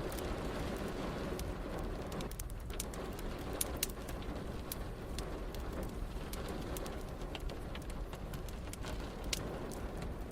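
Wood fire crackling, with frequent sharp pops and snaps scattered irregularly over a steady hiss of rain.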